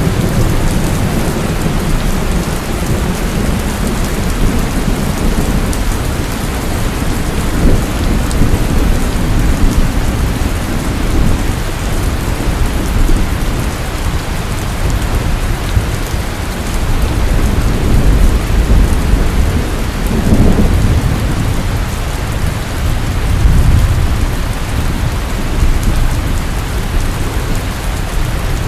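Heavy rain falling steadily, with thunder rumbling low underneath and swelling a few times.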